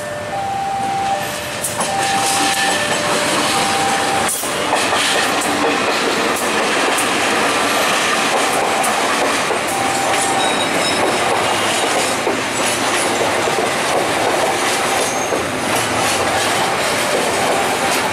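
A railway level-crossing alarm beeps in alternating two-tone notes as a diesel-hauled passenger train comes past. From about four seconds in, the train's passing takes over: a loud steady rush of steel wheels on rail with the clickety-clack of the coaches' wheels over the rail joints, with the alarm faintly audible beneath.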